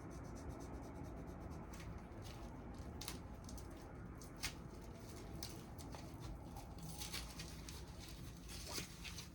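Faint rustling, scraping and small clicks of packaging being unwrapped from a set of motorcycle handlebars, busier near the end, over a steady low hum.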